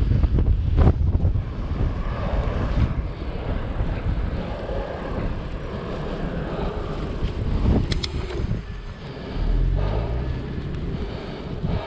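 Wind buffeting the microphone of a camera on a moving bicycle, a gusty low rumble over road noise, dipping briefly about nine seconds in.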